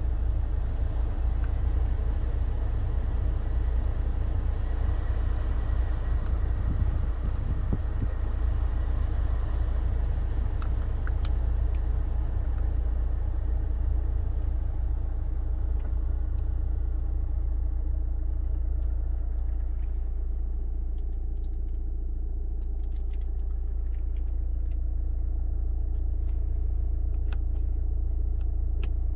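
Hyundai Tucson turbo diesel running with a steady low rumble. The higher-pitched noise fades out about halfway through, and a few faint clicks come in the second half.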